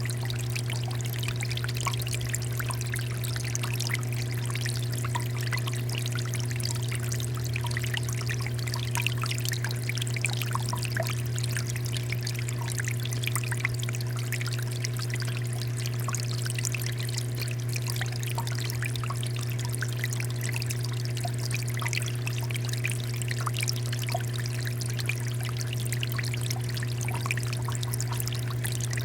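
Water fountain pouring and splashing steadily, with a steady low hum underneath.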